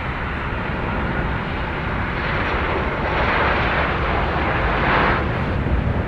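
Jet airliner engine roar, growing louder about two seconds in as the aircraft passes close.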